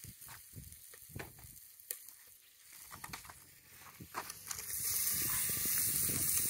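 Beef and onions frying in a cast-iron Dutch oven over a wood fire: scattered crackles and pops at first, then a steady sizzle that swells much louder about four and a half seconds in.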